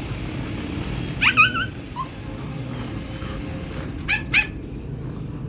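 Husky vocalizing: a short wavering whine about a second in, then two quick yips near the end, over a steady low background hum.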